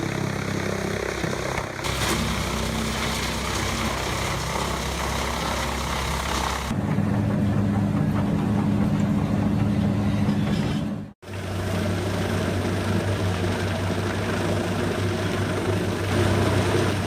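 Large machine engines running steadily through several cut-together shots, the engine note changing abruptly about two, seven and eleven seconds in, with a momentary dropout at the last cut.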